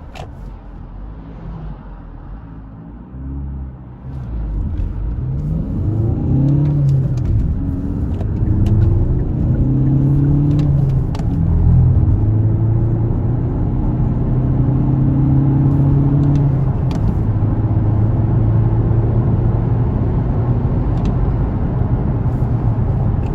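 Hyundai Tucson's 1.6-litre CRDi diesel engine running quietly, then pulling hard from about four seconds in. The engine note climbs in each gear and steps down at several upshifts of the six-speed manual during a 0–100 km/h acceleration run.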